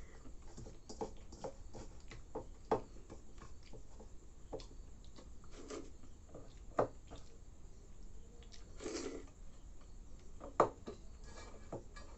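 Wet chewing and lip-smacking of a person eating chuda (flattened rice) soaked in milk, with irregular soft clicks and squishes. A few sharper clicks stand out, about 3, 7 and 10.5 seconds in.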